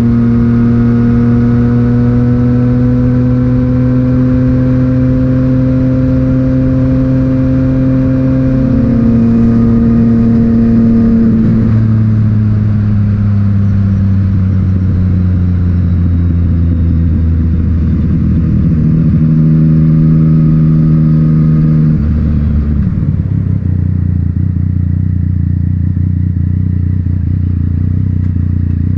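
Yamaha MT-09's three-cylinder engine through an Akrapovic titanium exhaust, heard from onboard the bike. The revs climb slowly, step up a gear about nine seconds in, then fall away as the bike slows, and settle into a low steady run for the last several seconds.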